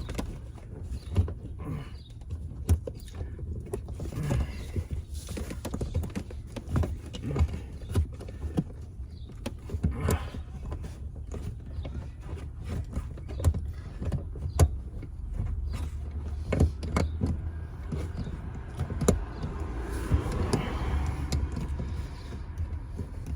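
Irregular clicks and knocks of hand tools and metal and plastic parts being worked while a car's rear seatbelt retractor is refitted, over a steady low hum.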